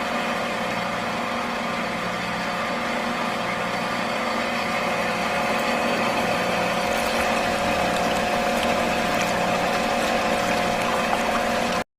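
Small electric water pump of a miniature model tubewell running steadily with a constant whine. It cuts off suddenly just before the end.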